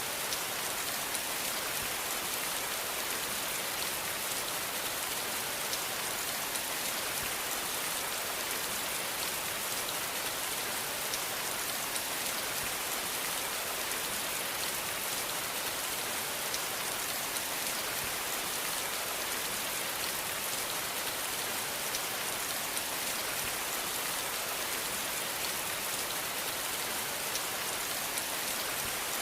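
Steady rain falling, an even hiss of many drops with fine patter, no change in intensity.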